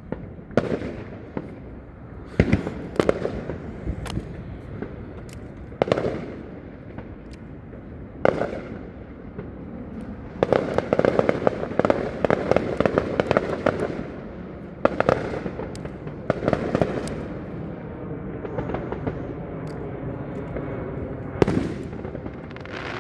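Fireworks going off: a series of sharp bangs spaced a few seconds apart, with a dense stretch of rapid crackling around the middle.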